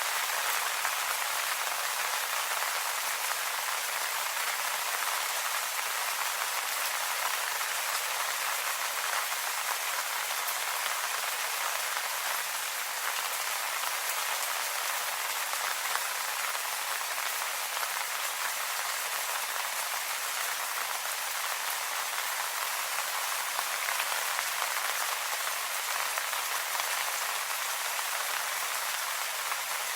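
Steady rain falling on leaves, an even patter of many small drops without pause.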